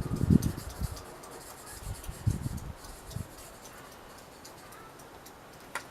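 Light handling sounds: a few dull knocks and faint rubbing in the first half, then a quiet stretch with a small click near the end.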